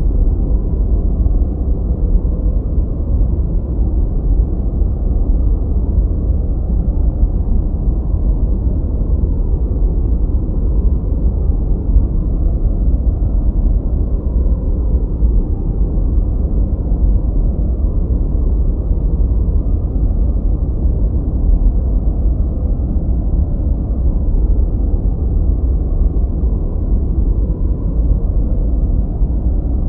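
Continuous generated noise, a steady deep rumble with no high hiss and no change in level, closer to brown noise than to true white noise.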